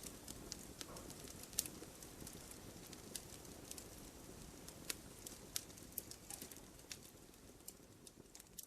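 Firewood burning: irregular sharp crackles and pops over a low, steady rustle of flame. The sound grows fainter over the last couple of seconds.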